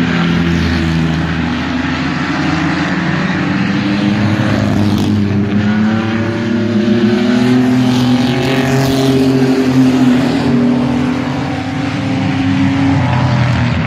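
Engines of several racing mini trucks running together around the oval, their overlapping pitches rising and falling as the trucks accelerate and pass, somewhat louder in the middle.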